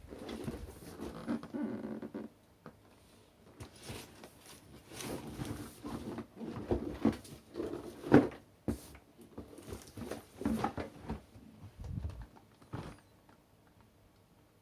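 Cardboard box and packaging being handled and opened by hand: irregular rustling, scraping and clicking, with a sharper knock about eight seconds in.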